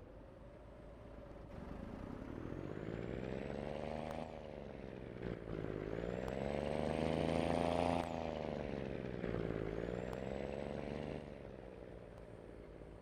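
Scania diesel engine pulling up through the gears: its pitch climbs, drops sharply at a gear change about four seconds in and again about eight seconds in, then climbs once more and eases off near the end. A faint high whistle rises with the revs on each pull.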